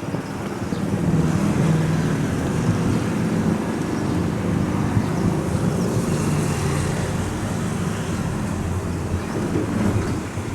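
Diesel locomotive engine of an Indonesian economy passenger train running with a steady low drone, growing louder about a second in.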